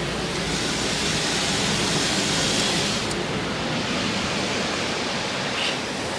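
Automatic car wash water jets spraying against the car's body and windows, heard from inside the cabin: a steady rush of water, strongest in the first three seconds and easing after that.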